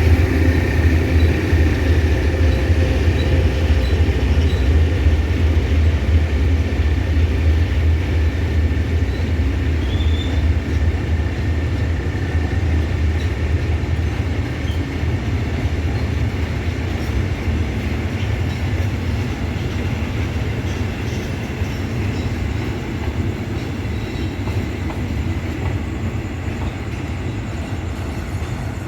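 Freight train rolling past behind a diesel locomotive: a steady heavy rumble of engine and wagons, with the locomotive's engine tones fading out early on and the whole sound slowly dying away as the train moves off.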